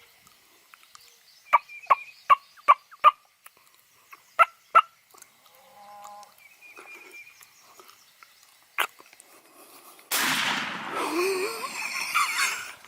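Wild turkeys calling at close range: a quick series of about seven sharp short calls, fainter calls after them, then a loud, rough burst about ten seconds in that lasts nearly three seconds.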